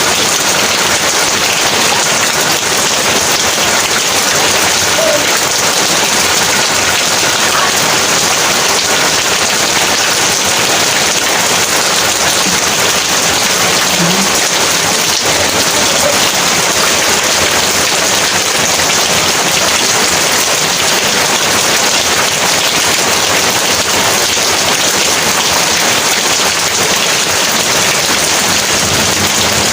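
Heavy rain falling steadily, an even, unbroken hiss of drops with no thunder.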